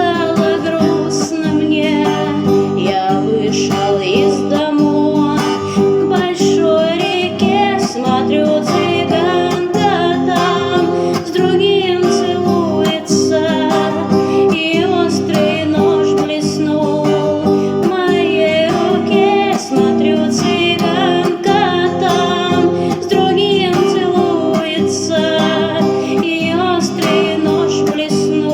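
A woman singing a Russian song to acoustic guitar accompaniment, with a steady, unbroken guitar part under the voice.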